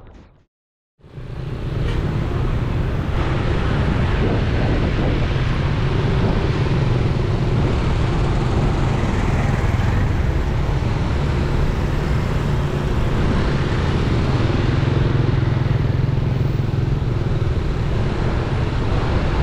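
A vehicle driving along a road: steady engine and road noise that starts about a second in, after a moment of silence.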